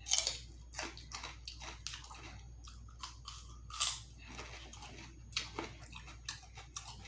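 Close-miked eating: a person biting and chewing food, an irregular string of short, sharp wet clicks and crunches, the loudest right at the start and about four seconds in.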